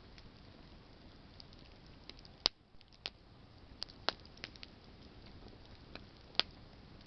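Campfire burning: a steady soft hiss with sharp crackles and pops from burning branches, several of them, the loudest about two and a half, four and six and a half seconds in.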